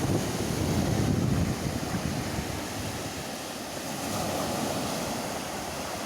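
Sea waves washing, with wind buffeting the microphone, strongest in the first second and a half.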